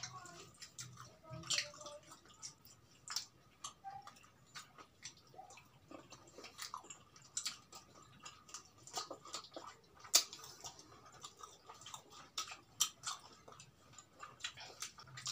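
Close-miked chewing and mouth smacking of fried chicken, with many short sharp clicks at irregular intervals.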